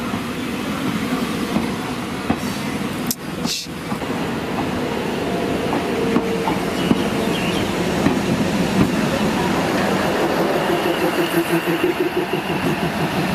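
Passenger train coaches rolling past a platform, with a steady rumble and the clatter of wheels on the track. Two sharp clicks come about three seconds in.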